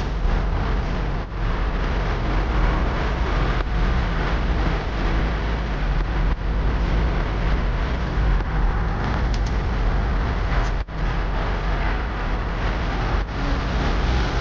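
Steady rushing noise with a heavy low rumble, briefly dropping out about eleven seconds in.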